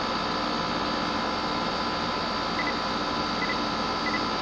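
Outdoor air-conditioning condensing unit running: a steady mechanical hum with several steady tones in it. Faint short double chirps repeat about every second from about halfway.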